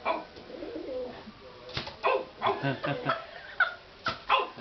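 Pigeon cooing in an agitated, fighting mood, with several sharp taps through the middle and end.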